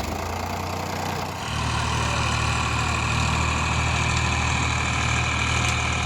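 Tractor diesel engine running steadily at idle, its note stepping up louder and fuller about a second and a half in.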